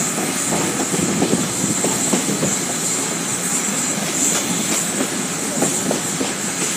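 Steam-hauled train rolling along the track behind locomotive No. 15: a steady rumble of wheels on rail with irregular clicks and clatter, under a constant high hiss.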